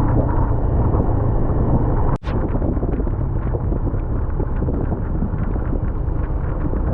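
Wind buffeting the microphone of a moving motorcycle, a steady low rumble of wind and road noise. It cuts out for a moment about two seconds in.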